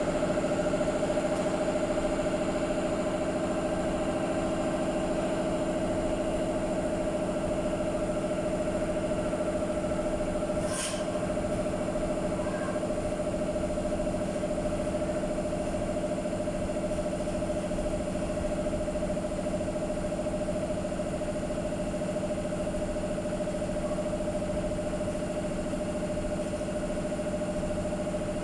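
A machine motor running steadily with a constant-pitched hum, with one sharp click about eleven seconds in.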